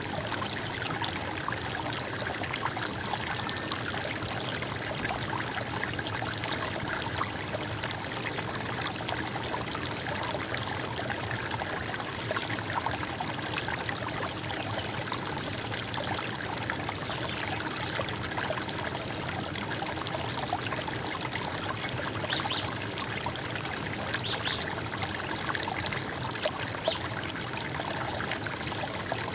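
Running water of a stream, trickling and gurgling steadily.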